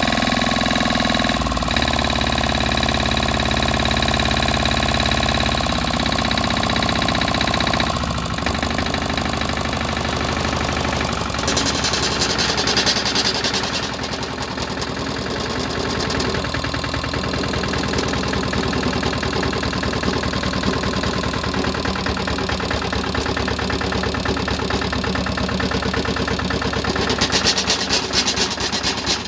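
Lombardini Tipo 520 single-cylinder diesel engine of a BCS 715 walk-behind tractor running: steady at first, then its sound changes about eight and again about eleven seconds in to a rougher running, getting louder near the end.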